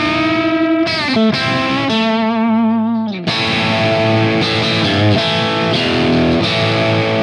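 Overdriven electric guitar played through a tube guitar amplifier, with sustained distorted chords and notes. There are quick changes and a bend in the first three seconds, then a full chord is struck about three seconds in and left to ring.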